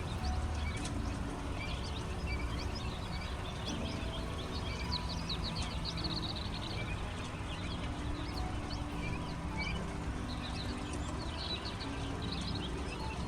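A brood of baby chicks and quail chicks peeping: many short, high chirps in bunches, busiest about five seconds in and again near the end, over a steady low background hum.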